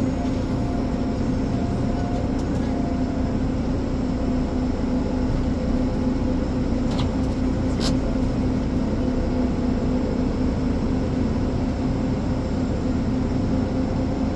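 Ponsse Elephant forwarder's diesel engine running steadily under a constant load, with two short clicks about seven and eight seconds in.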